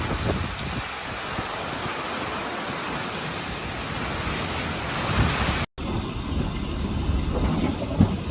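Heavy storm rain, a dense steady hiss with low rumbles beneath it. It cuts off abruptly a little before six seconds in and gives way to a duller, lower rumble.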